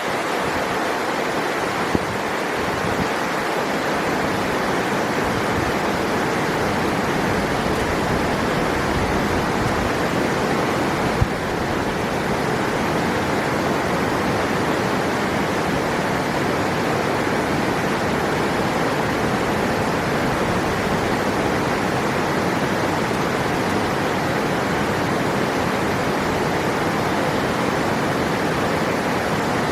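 River water rushing steadily in an even, unbroken roar of flowing water, with one brief click about eleven seconds in.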